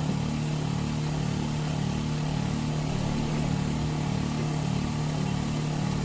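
Hyundai LF Sonata's engine idling steadily with a low hum.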